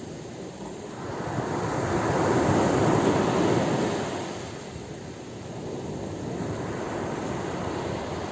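Ocean waves: a swell of surf builds about a second in, peaks, and washes back down, followed by a softer, steadier wash of water.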